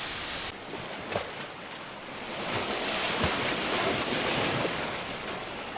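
Sea surf washing on the shore, with wind on the microphone; the wash swells in the middle and eases off near the end. A short burst of flat hiss opens it.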